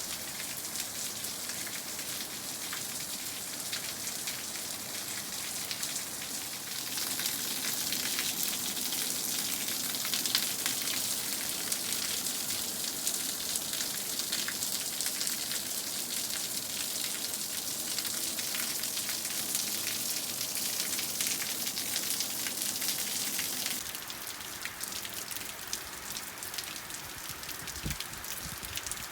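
Steady rain falling. It grows heavier about seven seconds in and eases off again near the end.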